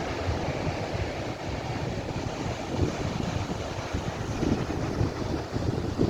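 Sea waves washing on a beach, with wind buffeting the microphone in a low, uneven rumble.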